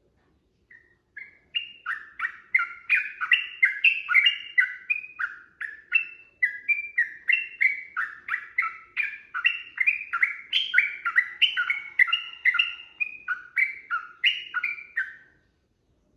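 Yellow-vented bulbul (trucukan) singing a long unbroken run of quick, varied notes, about three a second, starting about a second in and stopping shortly before the end.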